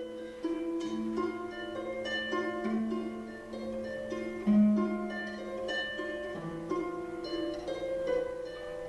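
Irish harp playing a plucked melody over repeated lower notes.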